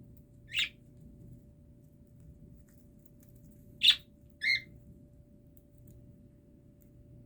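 Small pet parrot giving three short, high chirps: one about half a second in, then two close together near four seconds in.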